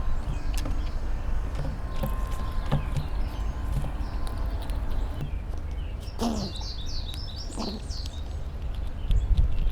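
A bird calls a quick run of high chirps about six seconds in, over a steady low outdoor rumble and a few faint scattered ticks.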